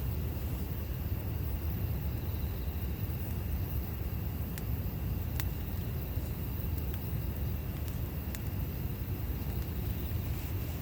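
Campfire burning: a few sharp, separate crackles from the wood over a steady low rumble.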